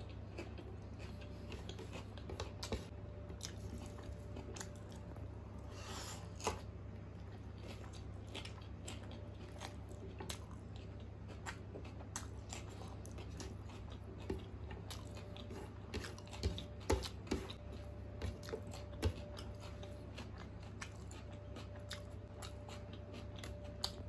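Close-up chewing and wet mouth sounds of a person eating rice, peas and paneer gravy by hand, with scattered short clicks and smacks that come more often and louder a little past the middle. A steady low hum runs underneath.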